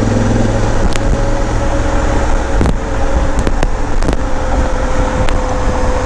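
Honda Africa Twin parallel-twin engine running steadily under the rider, mixed with road and traffic noise, with a few sharp clicks scattered through.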